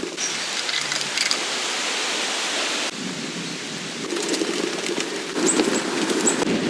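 Steady hiss of a storm, rain or wind-driven snow, on a tent. It changes abruptly about three seconds in and again about five and a half seconds in.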